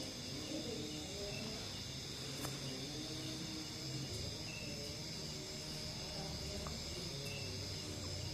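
Steady high insect-like chirring with a low steady hum beneath it.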